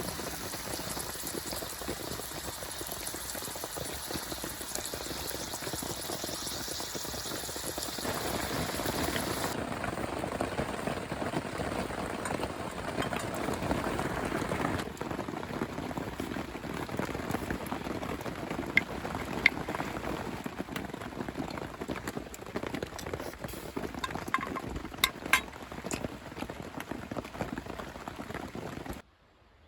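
Beef stew bubbling and simmering in a pot, with a few sharp clicks in the second half. The sound shifts abruptly a few times and cuts off just before the end.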